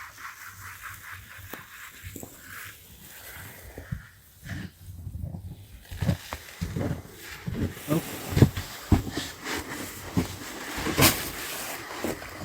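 Hand saw working through a dry deadwood log in repeated strokes, followed by irregular knocks and clunks of wood being handled.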